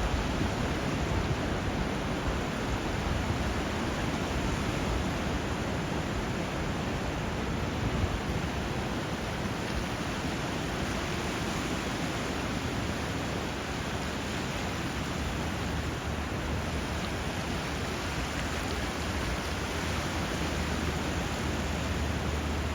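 Steady rush of flowing water and surf where a river runs into the sea, an even wash with a low rumble underneath.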